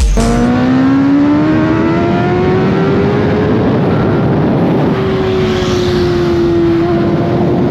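Kawasaki Ninja ZX-10R inline-four engine pulling up through the revs for the first few seconds, then holding a steady pitch that sags slightly, over a constant rush of noise.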